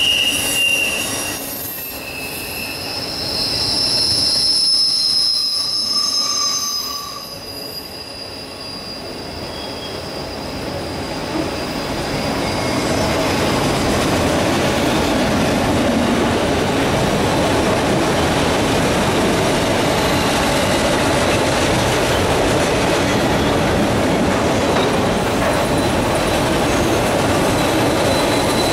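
Freight train cars rolling past on the rail line, their wheels squealing in high, steady tones for the first several seconds. After that comes a steady, even rumble of cars rolling by.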